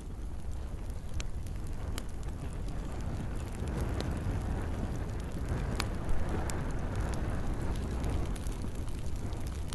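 Campfire crackling, with scattered sharp pops of burning wood, the loudest a bit past the middle, over a steady low rumble and hiss of fire and gentle rain.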